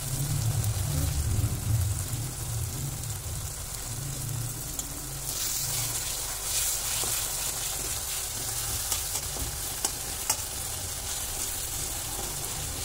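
Onion-tomato masala sizzling in hot oil in an iron kadhai while a steel slotted spoon stirs and scrapes it, with a few light clicks of the spoon against the pan. The sizzle grows louder for a few seconds around the middle.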